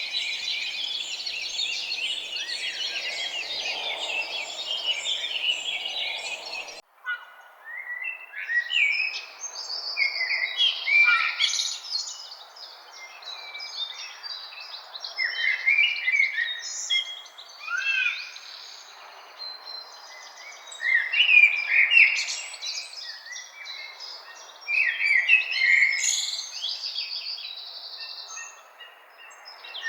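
Several wild songbirds singing and chirping in woodland, with a low hiss of background noise. About seven seconds in there is an abrupt break, and after it the birdsong comes in separate phrases with short pauses between them.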